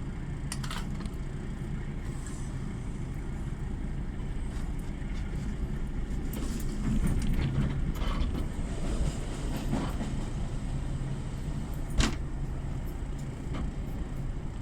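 A train running with a steady low rumble, with creaks and clicks and a sharp knock about twelve seconds in.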